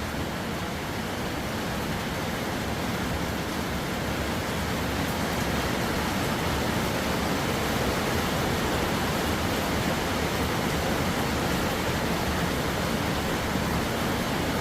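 Steady rain falling, a dense even hiss, growing a little louder over the first half.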